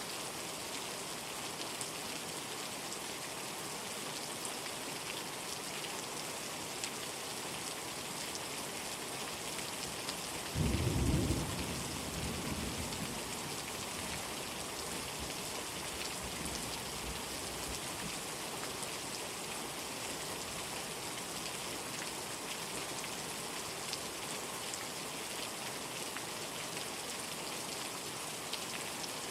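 Steady rain. A clap of thunder breaks in suddenly about ten seconds in and rumbles off over several seconds.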